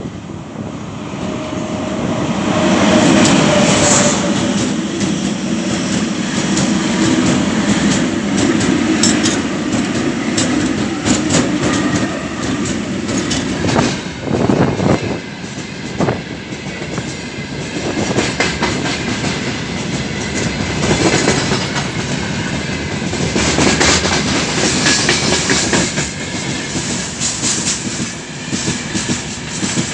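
Freight train hauled by Ermak electric locomotives passing close by. A steady heavy rumble with wheels clacking over rail joints builds up over the first few seconds.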